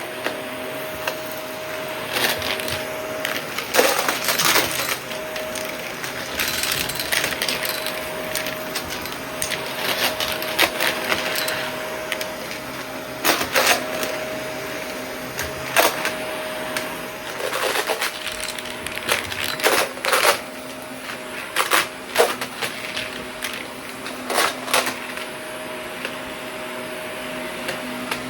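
Shark vacuum cleaner running with a steady whine, with frequent crackles and clicks as small debris rattles up through it.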